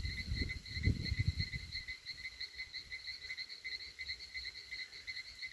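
A steady chorus of fast, evenly pulsing high-pitched calls from small animals such as insects or frogs. Low rumbling thumps sound during the first second and a half.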